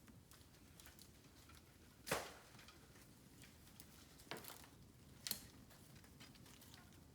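Bamboo burning in a campfire: faint crackling with a few sharp pops, the loudest about two seconds in and two smaller ones around four and five seconds.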